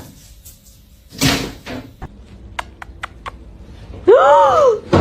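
A cat meows once near the end, a loud single call that rises and then falls in pitch. Before it there is a dull thump about a second in and a few faint ticks.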